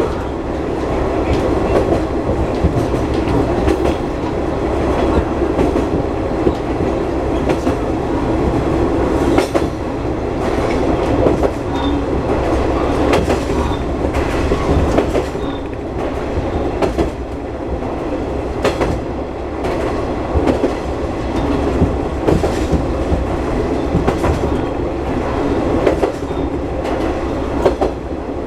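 Diesel railcar running along the line: a steady rumble of engine and wheels, with the clickety-clack of the wheels passing over rail joints.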